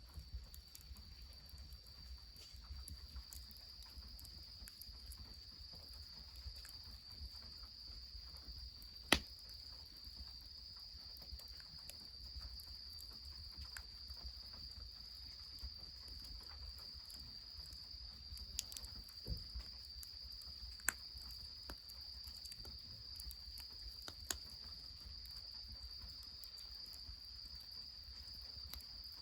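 Insects trilling in one continuous, steady high-pitched chorus. A few sharp snaps break in, the loudest about nine seconds in and several more later, from the wood fire crackling or nuts dropping.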